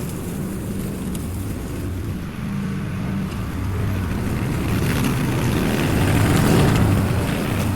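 Lawn mower engine running steadily while cutting tall, overgrown grass, growing louder about five seconds in.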